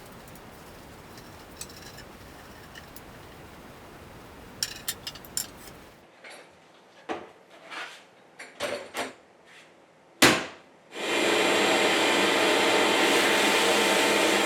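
Scattered clicks and knocks of metal parts being handled and one sharp bang, then a sandblasting cabinet running: a loud, even rush of blasting air with a steady motor hum under it for the last few seconds.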